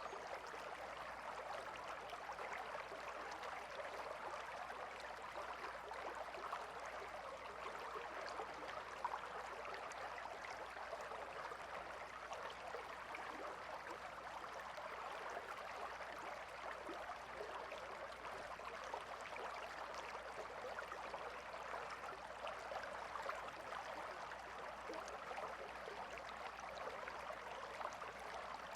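A calm river flowing, a steady babble and trickle of water without pause.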